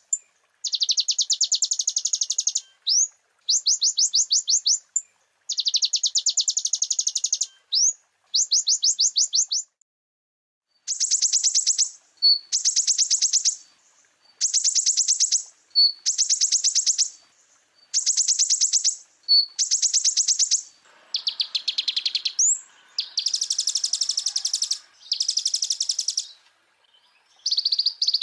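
Konin (kolibri ninja sunbird) singing a rapid, high trilled song in phrases of a second or two with short pauses between. From about two-thirds of the way in, the phrases turn buzzier and more varied.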